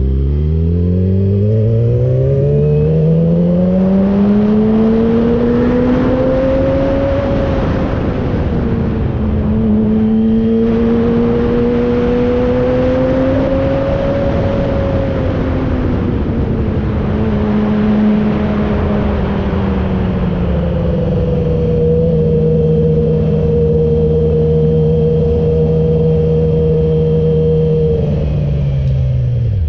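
Yamaha R6 sport bike's inline-four engine under way, with wind noise. Its note climbs over the first several seconds as the bike pulls away, holds a steady cruising pitch with small rises and dips, and drops sharply just before the end as the bike slows.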